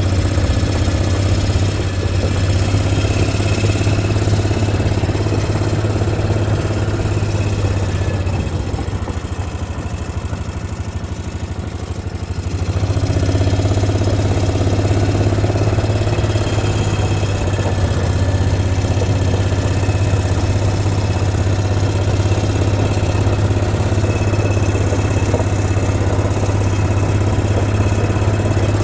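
Vehicle engine running steadily with a strong low hum, easing off for a few seconds past the middle and picking up again about halfway through.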